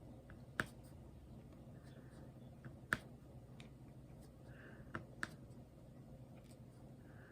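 Small, sharp clicks a second or two apart as diamond painting drills are pressed one by one onto the canvas. The click comes from the canvas's strong adhesive grabbing each drill.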